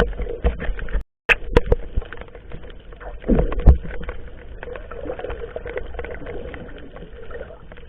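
Sounds on board a small fishing boat at sea: wind and water noise with scattered knocks and bumps. There is a louder knock a little past the middle.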